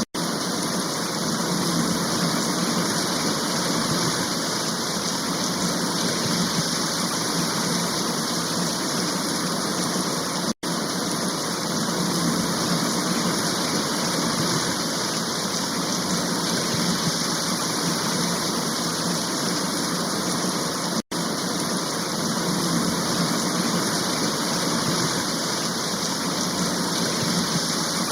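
Steady heavy rain, an even unbroken hiss of falling water. It drops out for a split second three times, about ten seconds apart.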